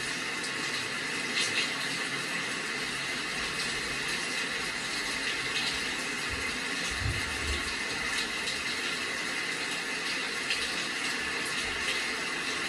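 Steady rain: a continuous even hiss with faint scattered drop ticks, and a brief low rumble about seven seconds in.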